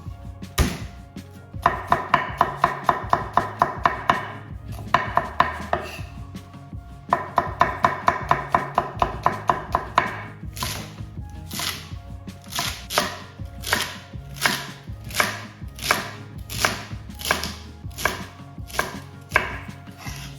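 Knife chopping vegetables on a cutting board: quick runs of about six cuts a second, then slower single cuts about twice a second through the second half.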